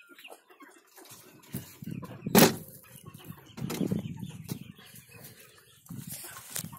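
Domestic hens clucking over low rustling and bumping noises, with one sharp, loud knock about two and a half seconds in.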